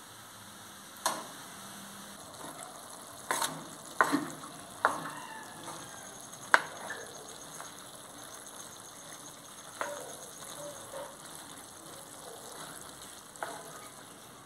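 Chopped vegetables frying in oil in a wide metal pan, with a steady sizzle. A wooden spoon stirs them, knocking sharply against the pan about seven times.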